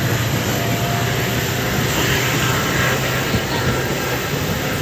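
Passenger train running, heard from an open coach doorway: a steady rumble of wheels, wind and the WDP4D diesel locomotive working ahead, with a constant low engine hum.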